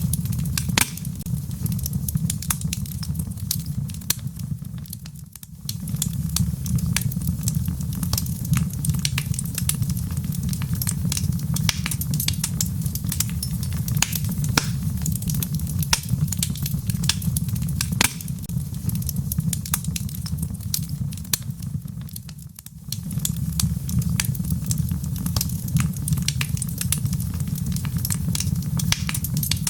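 Wood fire crackling, with frequent sharp pops and snaps over a steady low rumble, mixed with falling rain. The sound dips briefly twice, about five seconds in and again about twenty-two seconds in.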